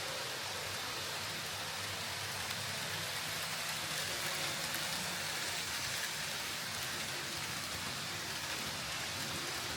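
Kato N scale train running past on the layout: a steady rushing of many small wheels rolling on the rails, with a faint low motor hum under it.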